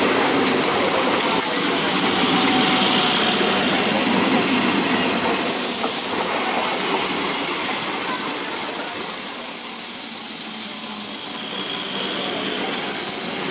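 Electric multiple unit local train passing at speed, its coaches' wheels running steadily over the rails. A high hiss comes in about five seconds in, and the sound eases slightly as the last coach goes by near the end.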